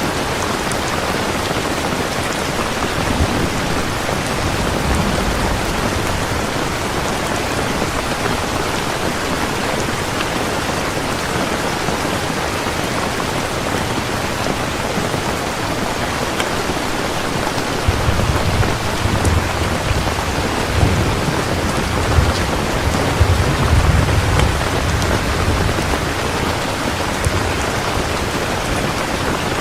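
Heavy rain falling steadily. Low thunder rumbles faintly a few seconds in, then rolls more strongly for several seconds from about two-thirds of the way through.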